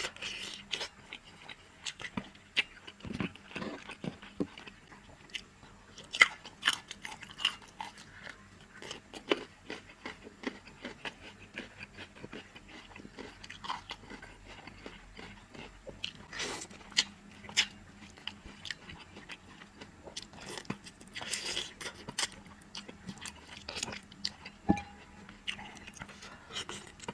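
A person chewing and biting spicy soft-shell turtle, close to the microphone: irregular wet smacks and sharp clicks of mouth and teeth working the meat off the bones.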